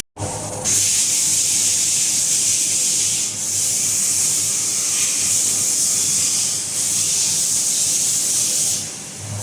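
CNC machine cutting an MC nylon part: a loud, steady high hiss of machining, with a faint low hum beneath. It starts after a brief silent break and dips briefly a few times.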